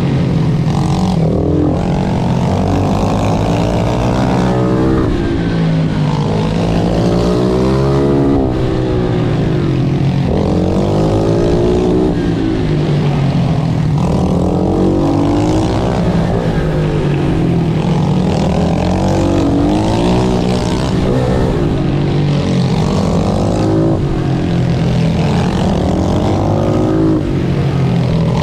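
Pit bike engine revving hard and repeatedly: the pitch climbs, drops back at each gear change or corner and climbs again every couple of seconds, in race riding.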